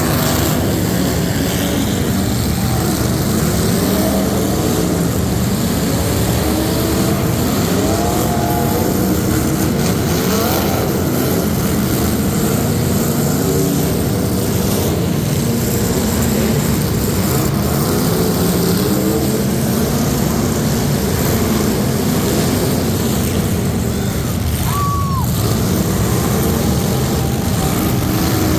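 Truck engines running loudly throughout, their pitch rising and falling as they rev. A brief high tone that rises and then falls sounds about 25 seconds in.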